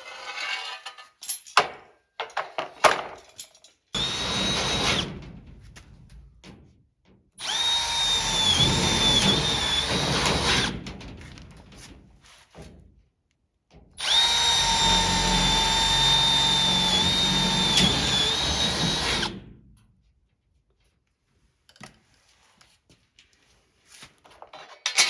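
Power drill boring holes in three runs: a short burst about four seconds in, then two longer runs of about three and five seconds. Its steady whine dips briefly in pitch as the bit bites. A few light knocks come before the first run.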